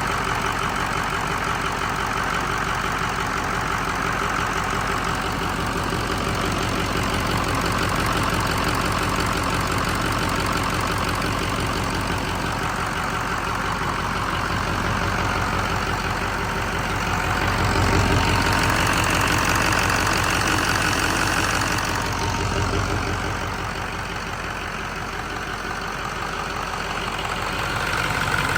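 2004 International VT365 6.0-litre V8 turbodiesel engine running steadily at idle, getting a little louder for a few seconds past the middle.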